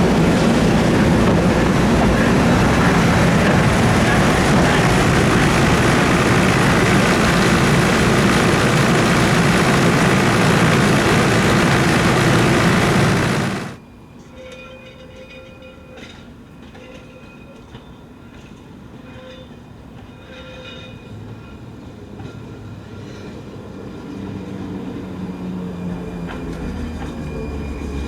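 Trieste–Opicina tram running on its rails, loud and noisy for about the first half, then cut off suddenly. After that comes a much quieter stretch in which a low rumble slowly builds toward the end.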